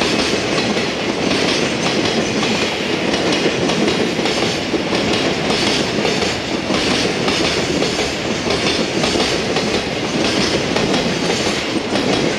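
Freight train's loaded container wagons rolling past at speed, a steady rumble with a repeated clatter of wheels over the rail joints.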